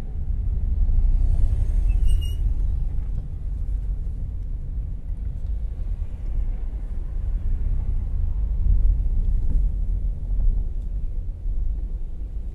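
A 2014 Volkswagen Jetta Clásico driving, heard from inside the cabin: a steady low engine and road rumble. A brief high squeak sounds about two seconds in.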